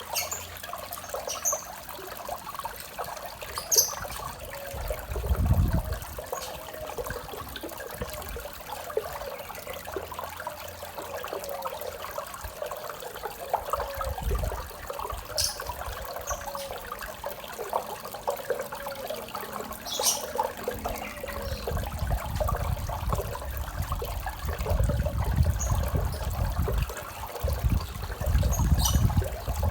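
A small waterfall trickling and splashing into a koi pond in a steady, bubbling stream. A low rumble comes in briefly about five seconds in and again through the last third.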